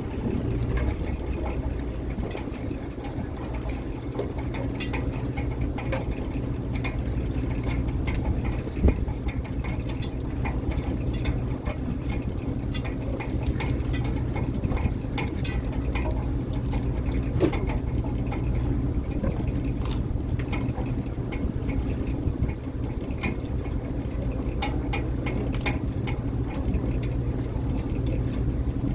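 Fishing boat's engine running steadily, with scattered light clicks and knocks over it.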